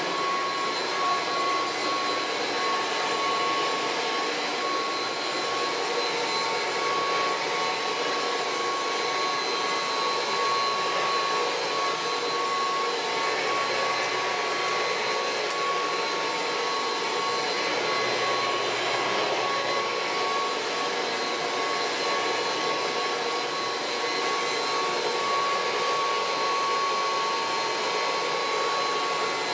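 Kirby Heritage II upright vacuum cleaner running steadily: a constant rush of air with a steady high whine over it.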